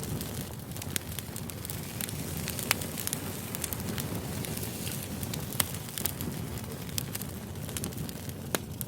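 Wood campfire burning, a steady low rustle of flames with scattered crackles and a few sharper pops from the burning logs.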